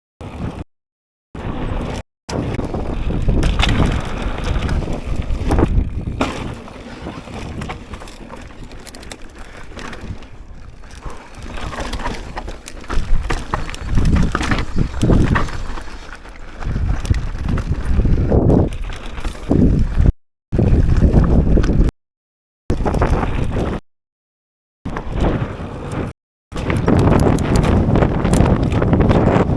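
Strong wind buffeting an action camera's microphone while a mountain bike rattles and rolls over a dirt trail, in uneven gusting surges. The sound cuts out to dead silence several times, briefly near the start and again about twenty to twenty-six seconds in.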